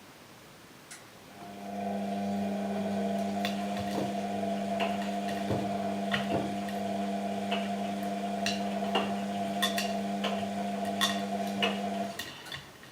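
Washing machine motor humming steadily as the drum turns, starting about a second and a half in and stopping abruptly near the end, with scattered clicks and knocks.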